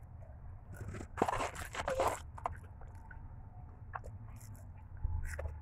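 Close-up crunching bites and chewing of crisp fast food in a person's mouth, loudest in a run of crackles about a second in, then softer chewing over a low steady hum.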